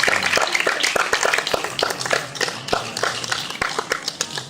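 Audience applause thinning out into scattered individual claps that grow fainter.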